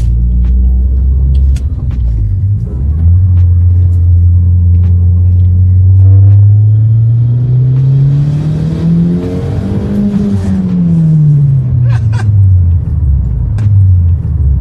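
Audi TT's big-turbo 1.8-litre four-cylinder engine heard from inside the cabin, running low and steady, then climbing smoothly in revs for about seven seconds under boost. It peaks about ten seconds in and falls back as the throttle comes off, settling to a low drone again.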